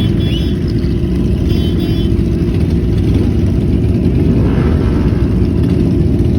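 Motorcycle engines running, a steady low rumble of many bikes together.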